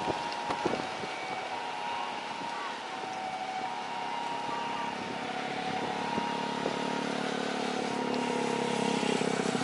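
Road traffic: a motor vehicle engine, most like a motorcycle, approaching and growing louder over the last few seconds, over a steady background hum.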